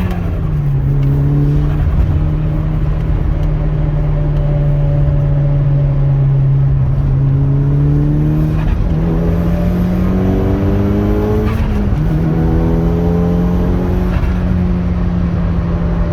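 A motor vehicle's engine running loud and steady, its pitch slowly climbing, with a few sudden steps up and down, as with gear changes or changes of throttle.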